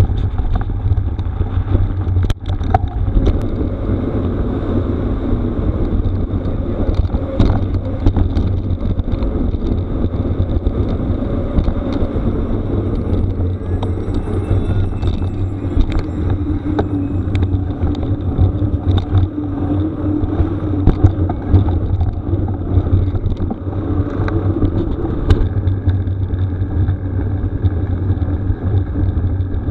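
Mountain bike ridden over a rough gravel forest road: wind rumbling on the microphone, tyres crunching on gravel, and frequent short rattles and knocks from the bike.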